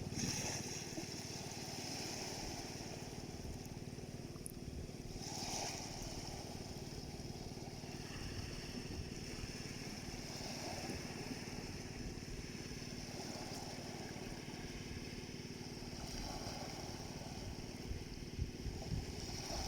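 Small sea waves splashing gently on the shore, swelling and washing in every few seconds, over a faint, steady engine hum.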